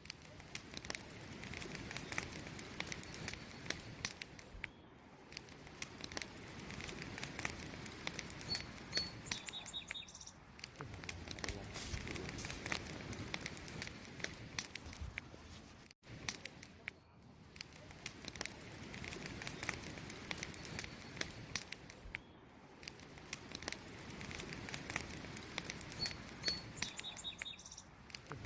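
Campfire crackling with many sharp pops and snaps over the continuous chirping of crickets, with a momentary dropout about halfway through.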